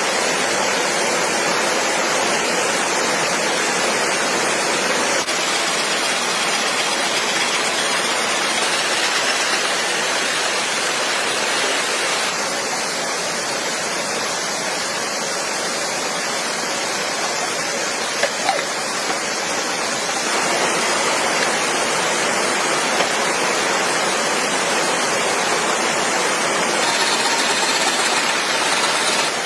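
Stream water rushing steadily: a loud, even hiss of flowing water.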